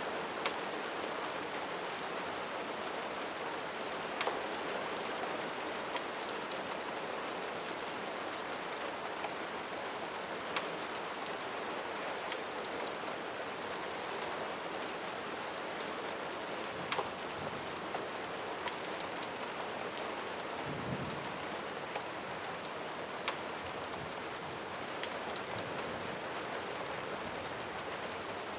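Steady rain falling, an even hiss with scattered sharp clicks and pops through it, and a brief low rumble about three-quarters of the way through.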